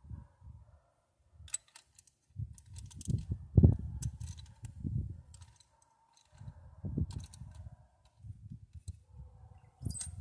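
Wind gusting over the microphone in irregular low rumbles, with scattered light metallic clicks of hand tools.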